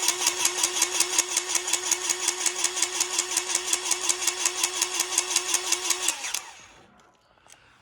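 Electric grease gun running for about six seconds and then stopping. Its pump pulses evenly, about six to seven strokes a second, as it pushes grease into a zerk fitting on the truck.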